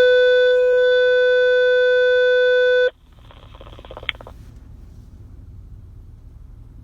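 Radio dispatch alert tone: one steady, buzzy tone held for about three seconds that cuts off suddenly. About a second of radio static with a click follows, then a low steady rumble.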